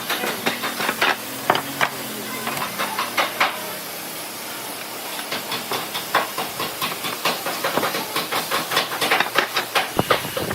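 Hand woodworking tools working wood: a string of sharp knocks and scrapes over a steady hiss. The strokes are irregular at first and settle into a quick, steady rhythm of about three to four a second from about halfway through.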